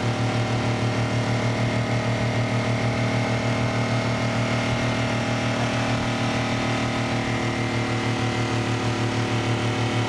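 Motorboat engine running steadily with an even, pulsing beat.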